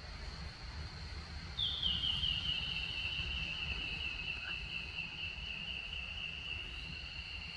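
Rainforest insects calling in steady, unbroken high-pitched drones: one holds throughout, and a second, slightly lower one starts about one and a half seconds in, sliding down a little as it begins. A low rumble runs underneath.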